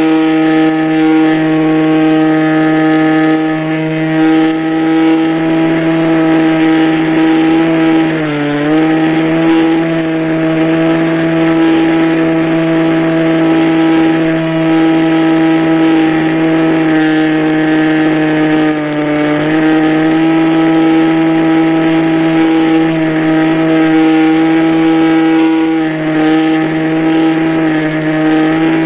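Radio-controlled model airplane motor running at a steady high pitch, dipping briefly twice as the throttle is eased.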